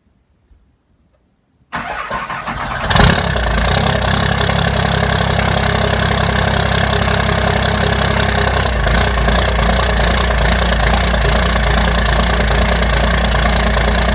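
12-valve Cummins 5.9-litre inline-six diesel cold-started without its block heater plugged in: after a moment of quiet the starter cranks for about a second, the engine fires on the first crank about three seconds in, and it settles into a steady cold idle.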